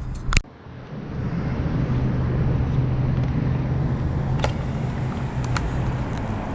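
Kawasaki KX250 dirt bike engine idling steadily, with a sharp knock just after the start and a brief dip in level before the steady idle returns.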